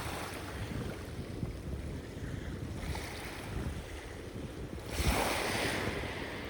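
Sea waves washing onto the shore, with one wave breaking more loudly about five seconds in. Wind buffets the microphone, adding a low rumble throughout.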